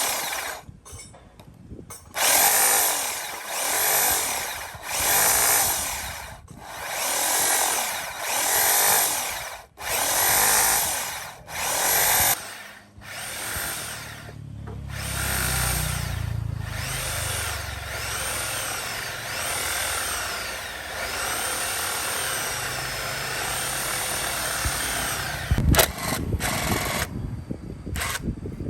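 Handheld electric power tool run in short trigger bursts, each spinning up and winding down, then held running more steadily for about ten seconds, with a sharp knock near the end.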